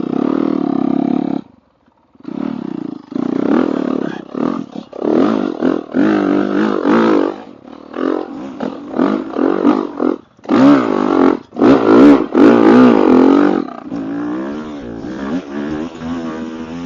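Dirt bike engine revving hard and unevenly, its pitch rising and falling over and over as the throttle is worked on a steep hill climb, with a brief break about a second and a half in and the loudest revving near the end.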